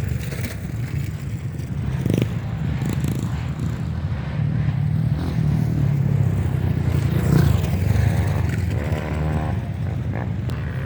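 Off-road trail motorcycle engines running, with a steady low note and a rev that rises and falls near the end.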